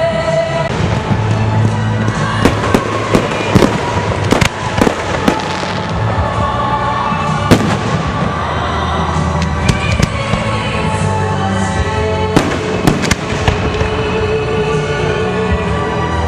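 Fireworks going off in quick, irregular succession, many sharp bangs and crackles, over music. One of the loudest bangs comes about halfway through.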